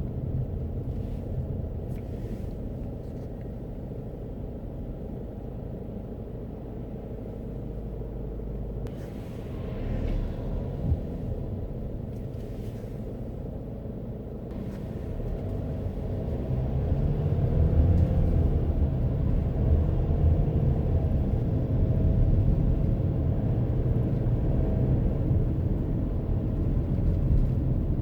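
A car's engine and tyre rumble, heard from inside the cabin while driving. The rumble grows louder about halfway through.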